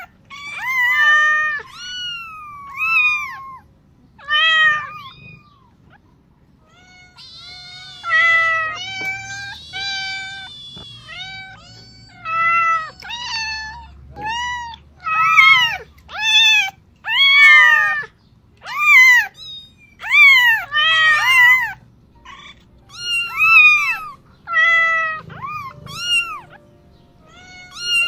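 Domestic cats meowing over and over: a long series of short meows that rise and fall in pitch, with a pause of a couple of seconds about six seconds in.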